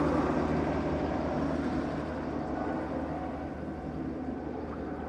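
Search and rescue helicopter flying overhead: a steady rotor and engine drone that slowly fades.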